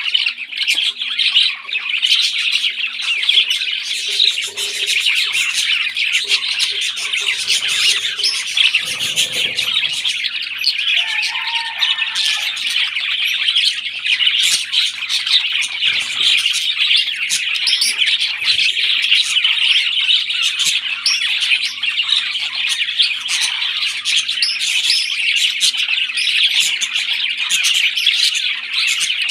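Parrots calling in a dense, continuous chatter of squawks and chirps.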